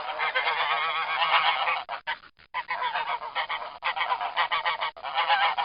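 A flock of geese honking, many calls overlapping, with a brief lull about two seconds in.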